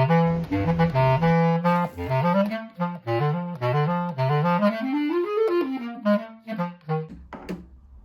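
Clarinet playing a quick melodic passage, with a run that climbs and then falls back in the middle; the playing dies away near the end.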